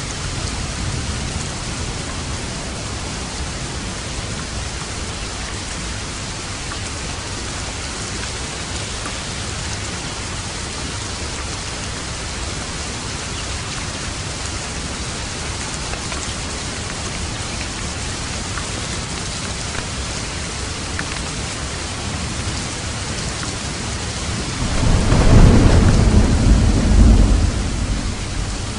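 Steady heavy rain falling, with a thunderclap rumbling about 25 seconds in that swells for a couple of seconds and then fades.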